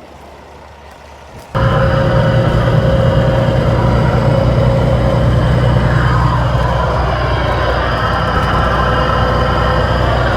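Kenworth semi truck's diesel engine running steadily while driving. It cuts in suddenly, loud, about a second and a half in, after a quieter low hum.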